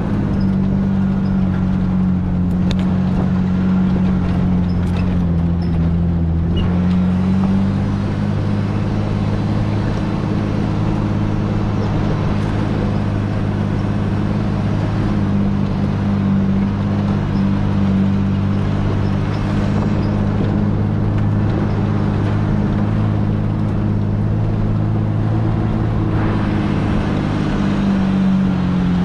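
SUV engine running steadily at low speed. Its pitch dips and rises a little, and a few light knocks or rattles come in the first several seconds.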